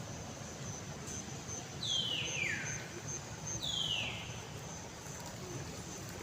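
Two high whistled bird calls, each sliding down steeply in pitch, about two seconds apart, over a faint rapid high chirping.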